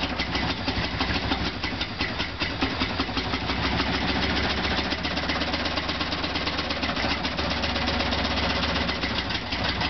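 Ford 5.0 EFI V8, swapped into a 1972 Mercury Comet, running steadily on its first startup.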